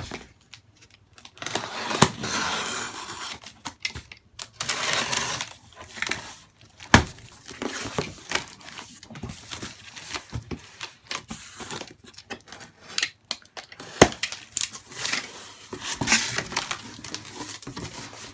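A cardboard box being opened by hand: packing tape tearing and cardboard and packing material rustling in stretches, with a few sharp knocks as the box and its contents are handled.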